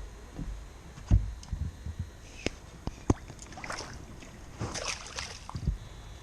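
Scattered knocks and clicks, the sharpest about one second and three seconds in, with a patch of rustling clatter around five seconds, over a faint low rumble.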